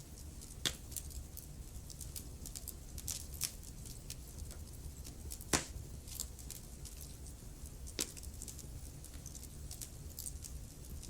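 Wood fire burning in a fireplace, crackling: scattered sharp pops and snaps over a low steady rumble, with the loudest pops about half a second in, near the middle and about eight seconds in.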